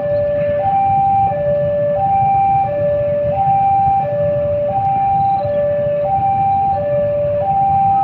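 Railway level-crossing warning alarm sounding, a steady electronic two-tone alternating evenly between a higher and a slightly lower note, each held under a second.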